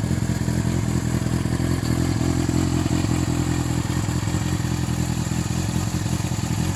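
Yamaha FZS1000's inline-four engine idling steadily.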